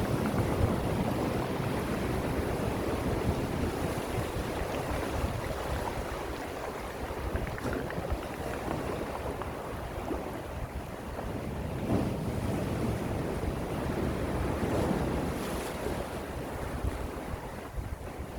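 Calm sea waves washing ashore in a steady rush that slowly swells and eases.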